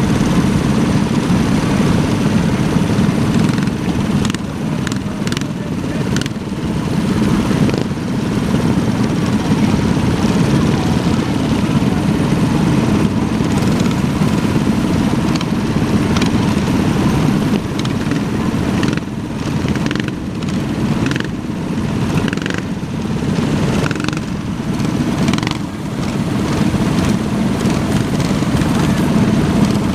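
Small minibike engines running steadily, with the sound swelling and dipping a little.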